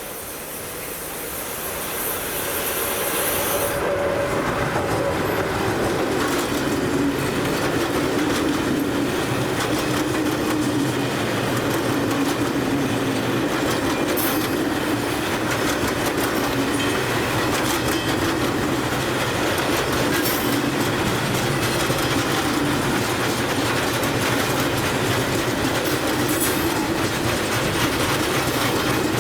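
A train passing close by: it grows louder over the first few seconds, then its cars roll past steadily, with the clickety-clack of wheels over rail joints.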